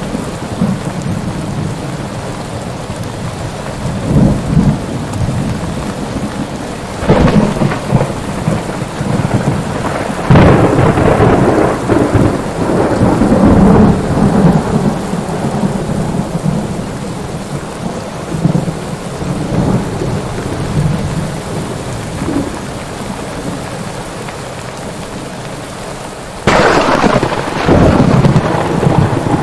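Thunderstorm: steady heavy rain with rolling thunder, long rumbles swelling about a third of the way in and a sudden loud thunderclap near the end.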